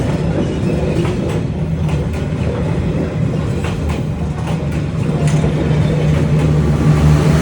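Train passing at close range: a steady rumble of wheels on the track, with irregular clacks over the rails and a low drone that grows louder near the end.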